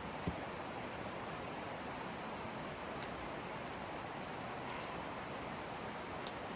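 Campfire burning with a steady hiss and three sharp crackling pops spread across a few seconds.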